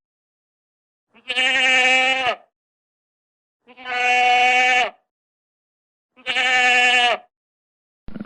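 Three bleats, about a second each, evenly spaced with silence between; each call holds a steady pitch and drops at the end. A different, rougher sound starts just at the close.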